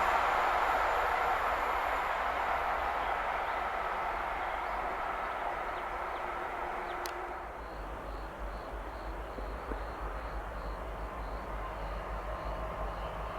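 A passing train moving away, its rail noise fading steadily. About halfway through there is a sharp click, and a quieter steady background noise remains.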